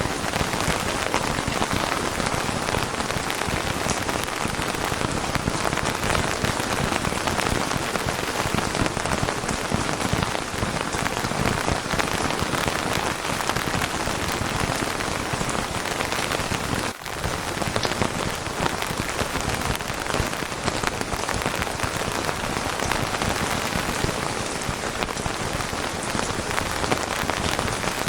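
Steady rain falling in a dense, even patter, with a momentary dip in level about two-thirds of the way through.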